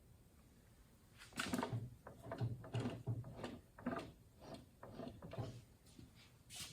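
A string of irregular knocks and clunks, several a second, from about a second in: parts and tools being handled during transmission reassembly.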